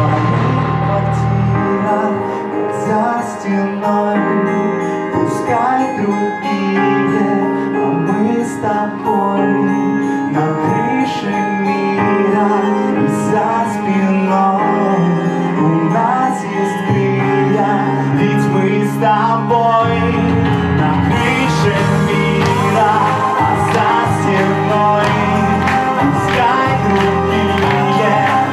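Pop-rock band music, a largely wordless passage of the song with sustained instrumental notes. The bass drops back about two seconds in, and the full band with cymbals comes back in about twenty seconds in.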